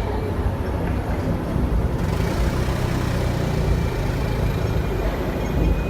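Hong Kong double-decker electric tram running on its rails, heard from on board: a steady low rumble with a deeper hum that swells in the middle.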